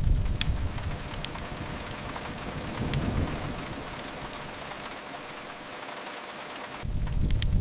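Steady rain against a window mixed with a crackling wood fire, sharp pops near the start and end, and deep rumbles swelling at the start, around three seconds in, and again near the end.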